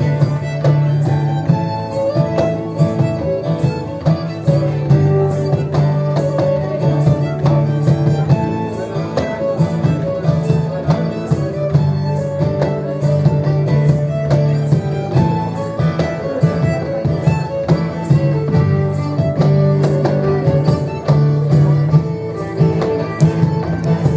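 Live Celtic folk dance music, with fiddle and guitar over a steady beat and a sustained low note.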